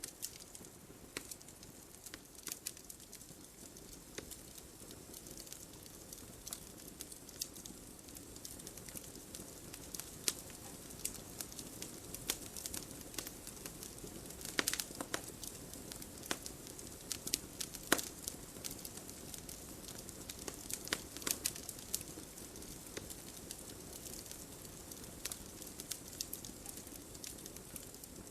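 Wood campfire burning with a soft steady hiss and many irregular sharp crackles and pops, busiest in the middle with one loud pop about eighteen seconds in.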